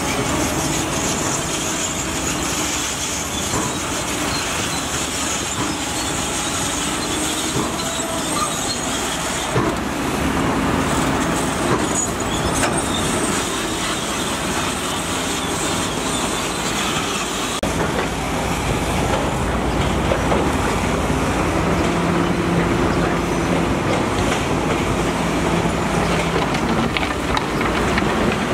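Heavy earthmoving machinery at work: diesel engines running loud and steady, with the engine note shifting a few times, over metallic clanking and squealing.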